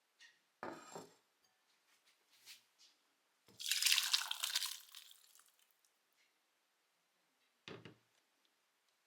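Liquid sounds from handling instant food: a short knock, then about two seconds of splashing liquid that fades out, then another short knock near the end.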